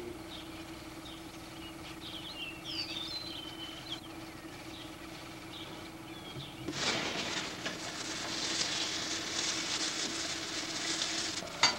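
Small birds chirping over a steady low hum. Then, from about seven seconds in, a loud, crackling sizzle of food frying in a pan on the stove.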